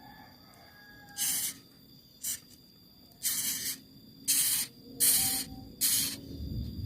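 An animal hissing, six short, sharp hisses with pauses between them.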